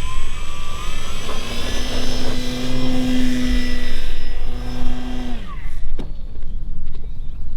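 Electric motor and propeller of a radio-controlled Sopwith Camel biplane model under throttle on its maiden flight: a steady whine that rises briefly at first, then winds down and stops about five and a half seconds in as the throttle is cut, followed by a single sharp knock. The pilot judges the motor too weak for the plane. Wind rumbles on the microphone throughout.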